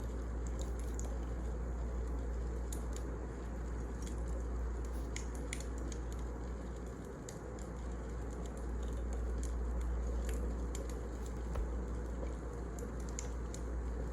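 Wood fire crackling: scattered sharp pops and ticks over a steady low rumble of the flames.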